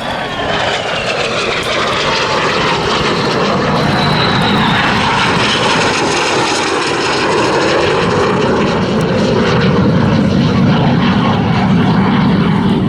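Two BAE Hawk T1 jets passing low and fast, their engine noise rising quickly to a loud, steady jet sound. A whine falls in pitch over the first few seconds as they go by, and a deep rumble grows stronger near the end.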